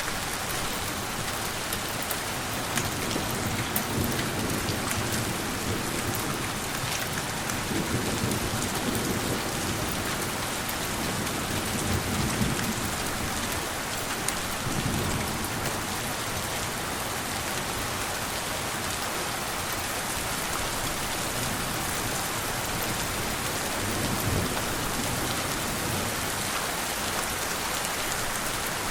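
Steady rain falling, with gentle thunder rumbling low several times.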